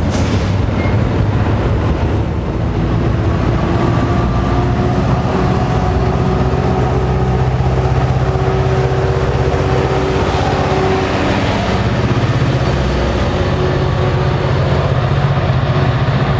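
NJ Transit passenger train of multilevel coaches rolling along the rails, with the steady low drone of its diesel locomotive's engine under the wheel and rail noise as the train pulls away.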